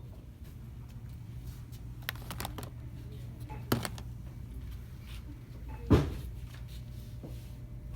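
Shop interior ambience: a steady low hum with a few light clicks, then two knocks of handled merchandise or fixtures, the louder one about six seconds in.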